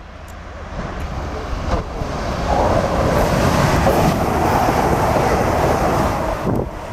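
A train running through the station, its rumble and rail noise building over the first few seconds, staying loud, then easing off near the end.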